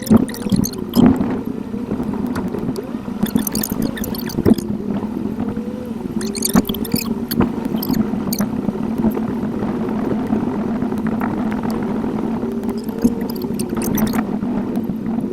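Car driving noise recorded by a dashcam and sped up eightfold: a steady drone with wavering tones over it and scattered sharp clicks.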